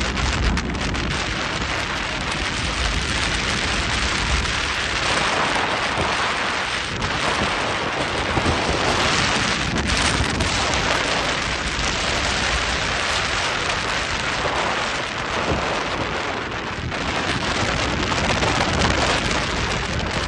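Heavy rain with wind buffeting the microphone: a steady, loud rushing noise with a low rumble underneath.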